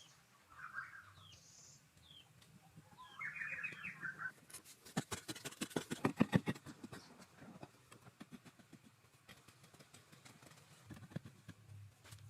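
Birds chirping in short calls, then a quick run of sharp clicks and knocks from about four to seven seconds in, the loudest part, with a few scattered knocks after.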